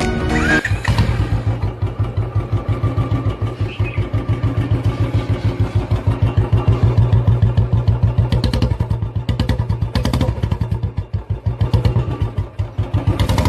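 Motorcycle-type engine running steadily, a fast even beat of low pulses, starting about half a second in.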